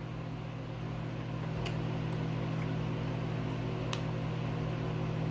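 A steady low hum with a few faint, short clicks: about two seconds in, once more shortly after, and again about four seconds in.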